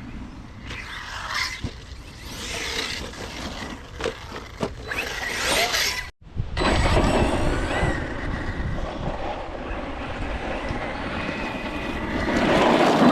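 Brushless electric motor of an Arrma Notorious 6S RC stunt truck whining in short rising bursts as it is throttled up, with tyre and ground noise. The sound cuts out abruptly about six seconds in and comes back as steadier running noise.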